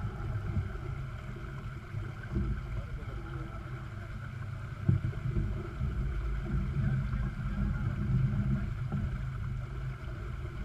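Sailboat under way, with a steady low rumble of wind on the microphone and the boat moving through the water, and a single knock about five seconds in.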